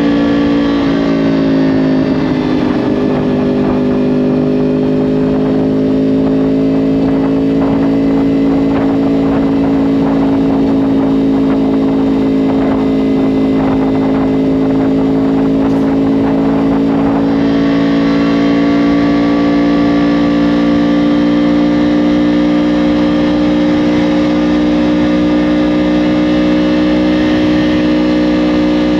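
2010 Yamaha R1's crossplane inline-four running through a Yoshimura exhaust while riding. The revs dip about a second in, then climb slowly and steadily, and the exhaust note grows brighter and harder about two-thirds of the way through.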